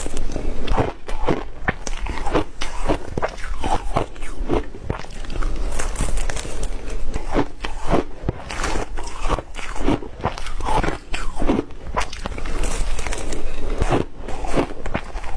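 Close-up chewing of ice cubes: a continuous run of sharp crunches and cracks, several a second, as the ice is bitten and broken between the teeth.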